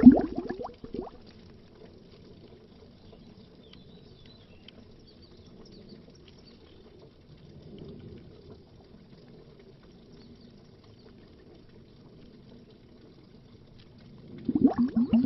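Underwater bubbles in a dense, rapid stream that dies away about a second in. A long lull follows with only a faint low water murmur, and the bubbling starts again near the end.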